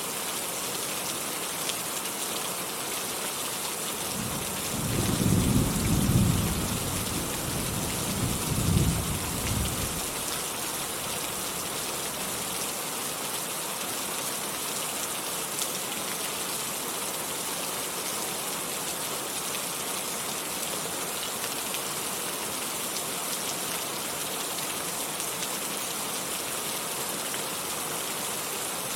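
Steady heavy rainfall with a low thunder rumble about four seconds in that swells twice and fades out by about ten seconds.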